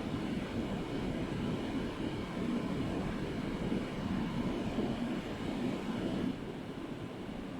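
Low, continuous rumble of distant rolling thunder, easing slightly about six seconds in.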